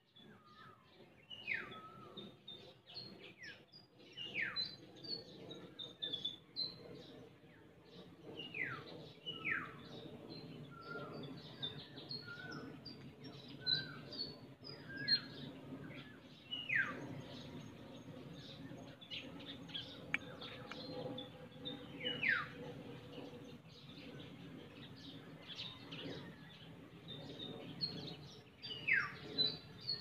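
Wild birds singing: a loud whistle that slides steeply downward in pitch, repeated about seven times, among many short high chirps, over a steady low background rumble.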